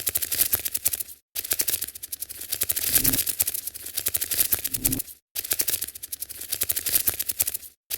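Looped sound effect of rapid, dry clicking and scratching, a scurrying noise for the on-screen spider. It cuts out briefly about a second in, again about five seconds in and near the end, then starts over.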